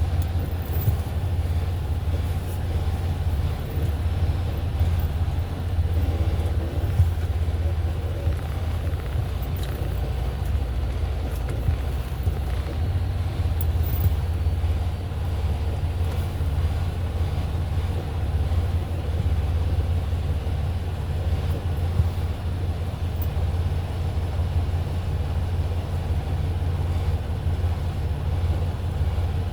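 Semi truck's diesel engine running, a steady low rumble with no change in pace.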